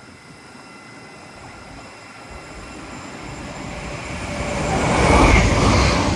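LNER Azuma (Class 800) high-speed train approaching and passing through the station without stopping, its rushing noise building steadily to a loud peak about five seconds in.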